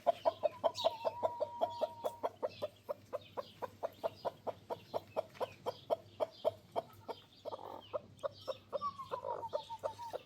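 Chicken clucking rapidly in a steady run of about five clucks a second, with a drawn-out higher call held at the start and again near the end.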